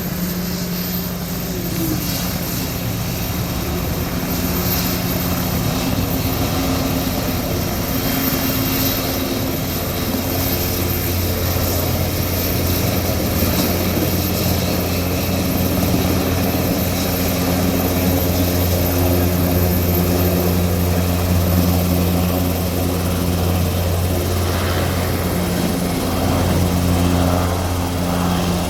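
Helicopter running: a steady turbine and rotor drone with a low hum that grows stronger about nine seconds in.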